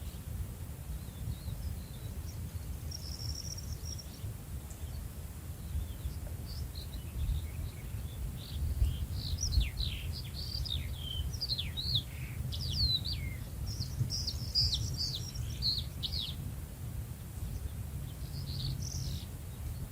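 Songbirds chirping: many quick, high notes sliding up and down, busiest in the middle stretch, over a steady low rumble of outdoor background noise.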